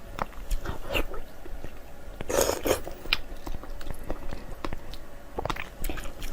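Close-up eating sounds: chewing with many small wet clicks and smacks, and a louder half-second burst of eating noise about two and a half seconds in.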